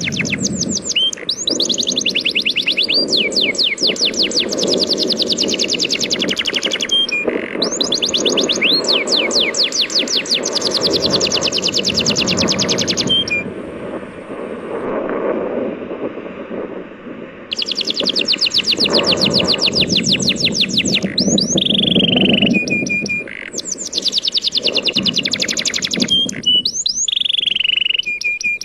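A songbird singing in long, rapid trills of repeated chirps mixed with a few whistled notes, pausing for a few seconds about halfway through, over the steady rush of sea waves.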